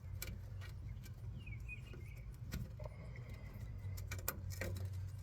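Scattered light clicks and taps from parts being handled at the radiator, over a steady low hum. A short bird chirp comes about a second and a half in.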